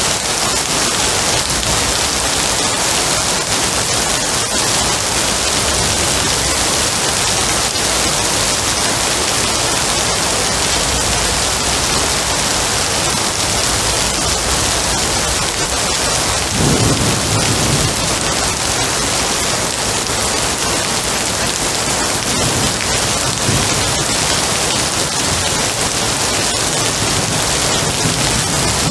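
Steady rain hissing, with a low rumble of thunder a little past halfway through and another starting to build near the end.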